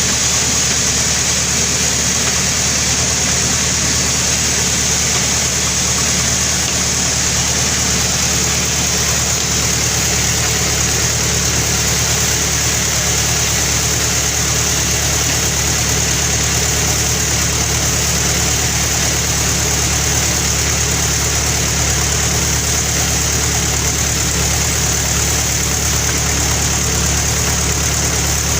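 Sawmill machinery running steadily, a low engine drone under a constant high hiss.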